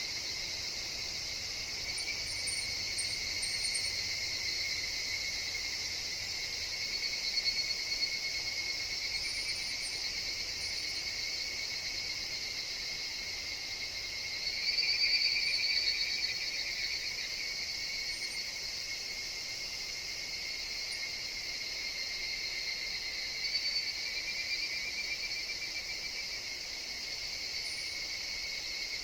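A chorus of higurashi (evening cicadas) calling continuously in a forest, swelling louder about halfway through. Faint, short, high chirps come now and then.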